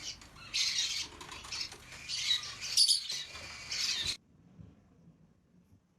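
Parrot giving harsh, repeated squawks that cut off suddenly about four seconds in.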